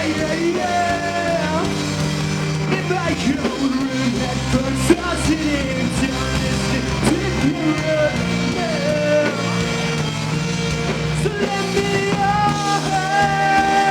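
Live rock band playing a song, a melodic line gliding and bending over sustained bass notes and drums.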